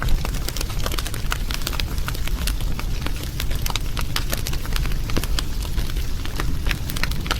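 Wood fire crackling, with frequent irregular sharp pops over a steady low rumble of burning flames.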